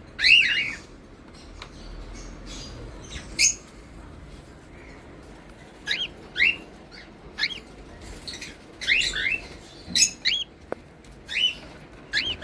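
Pet parrots giving short, sharp chirping calls, some single and some in quick runs of two or three, with pauses of a second or two between.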